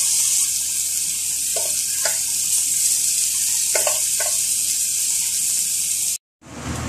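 Sliced onions and tomatoes sizzling in oil in a stainless steel pan, with a few short scrapes of a wooden spatula against the pan as they are stirred. The sound cuts out for a moment about six seconds in.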